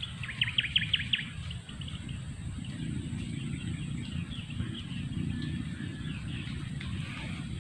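A bird calling outdoors: a quick run of short, high chirps, about ten a second, in the first second, then fainter scattered chirps. A low, steady outdoor rumble strengthens from about three seconds in.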